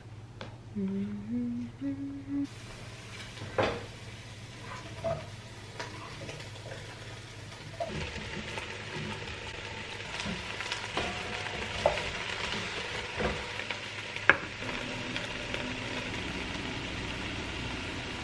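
A chef's knife knocking on a wooden cutting board as cauliflower is chopped, then, from about halfway in, cauliflower sizzling as it fries in an enameled cast-iron pot over a gas flame, with a steady hiss and occasional sharp clicks of a wooden spoon against the pot.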